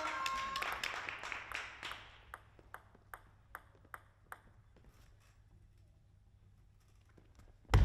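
Table tennis ball bouncing in a quick, even series of sharp clicks, about two or three a second, after crowd noise dies away over the first two seconds. A loud sudden knock comes right at the end.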